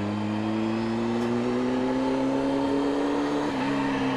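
Motorcycle engine pulling away under steady throttle, its pitch rising slowly, then dropping a little about three and a half seconds in and holding steady, over wind and road noise.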